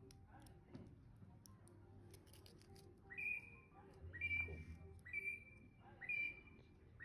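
A bird calling a repeated whistled note about once a second from about three seconds in, each call rising quickly and then holding steady. Before it, faint crinkling of the foil wrapper on a chocolate egg being peeled.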